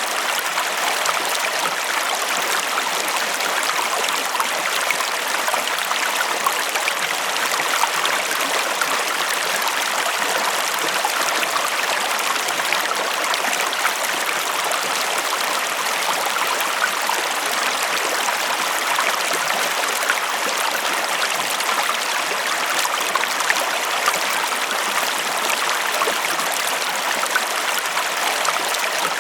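River water flowing steadily over stones, an even rushing with small splashes and trickles throughout.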